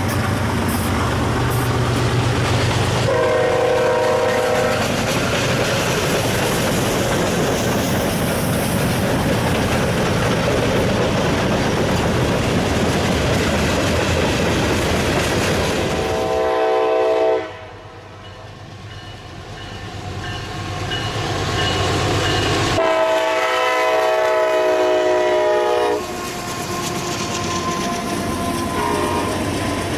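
A freight train passing close: BNSF diesel locomotives rumble by and sound a horn for about two seconds, a few seconds in, then tank cars roll past with a steady noise of wheels on rail. In the second half, in short edited segments, further train horn blasts sound over trains passing.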